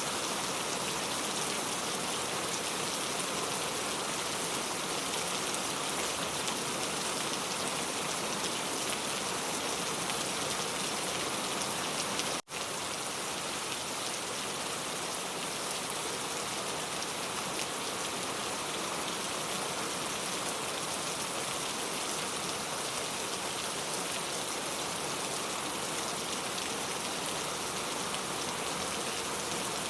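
Steady rain falling on surfaces: an even, dense hiss of drops. It cuts out for an instant about twelve seconds in, then resumes.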